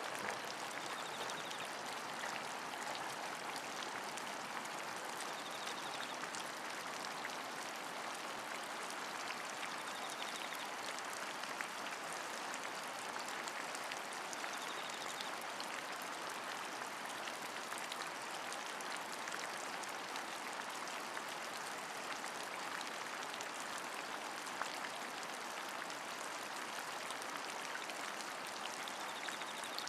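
Steady rain falling, with many small drop impacts ticking through an even hiss that stays level throughout.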